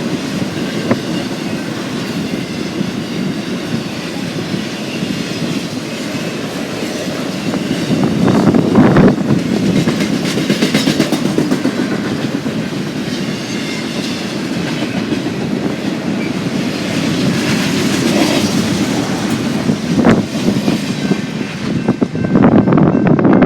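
Freight train rolling past, its wheels clicking over the rail joints.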